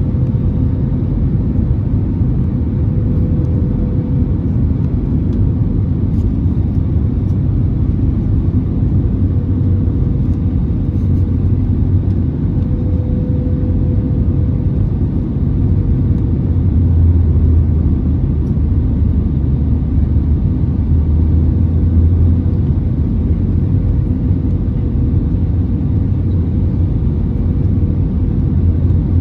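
Steady low rumble of engine and airflow noise inside the cabin of an Airbus A320neo, with a faint steady hum over it.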